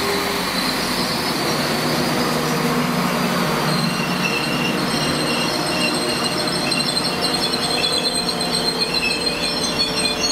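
Transport for Wales Class 197 diesel multiple unit running slowly along the platform. From about four seconds in there is a high, wavering squeal as it slows.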